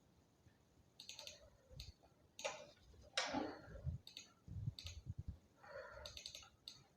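Faint computer keyboard keystrokes and mouse clicks, coming a few at a time at irregular moments.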